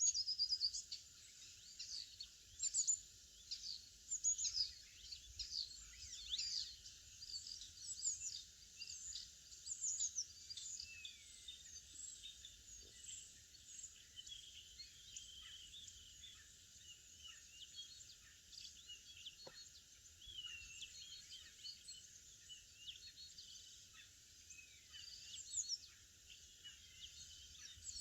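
Several small songbirds chirping and singing, with many short overlapping calls and trills. They are busiest in the first half and again near the end.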